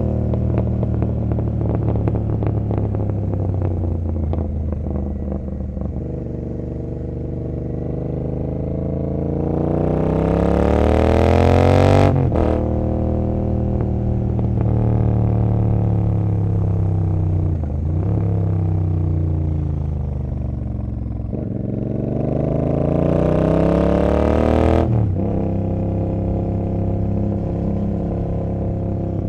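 Royal Enfield Continental GT 650's 648 cc parallel-twin engine through an aftermarket Emgo cafe muffler, heard while riding. In the first few seconds the revs fall and the exhaust crackles and pops on the overrun. Then the engine revs up twice, with a sudden drop in revs about 12 and 25 seconds in, as the rider shifts up a gear.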